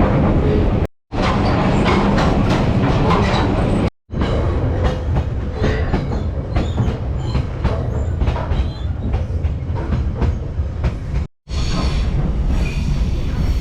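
Passenger train running on the rails, heard from aboard: a steady heavy rumble, with repeated clacks of the wheels over the track through the middle stretch. The sound drops out briefly three times where shots change.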